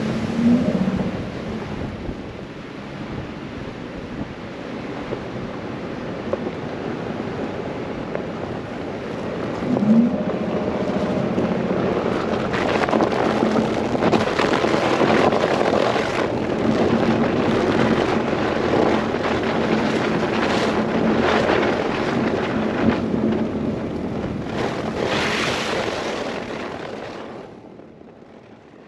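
Blizzard wind blowing and gusting over the microphone, swelling and easing, then fading out near the end.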